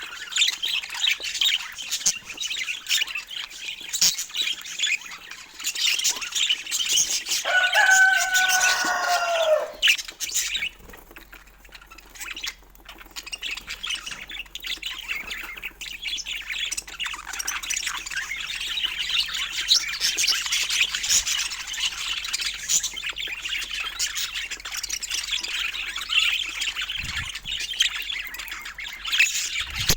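Budgerigars chattering and warbling continuously, with one lower, falling squawk about eight seconds in and a short lull just after it.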